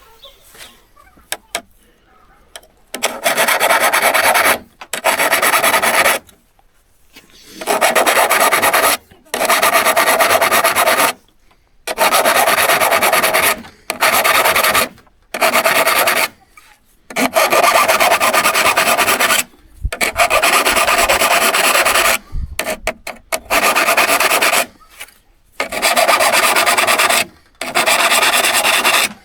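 Abrasive strokes worked by hand along a steel hand-saw blade: about a dozen loud strokes of one to two seconds each, with short pauses between them.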